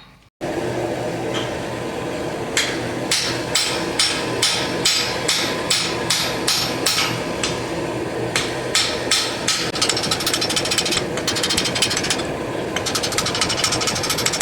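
Hammer blows on hot axe steel as the edge is drawn down thinner, about two a second, breaking into rapid runs of fast strikes near the end. Under them runs a steady rushing noise from the gas forge.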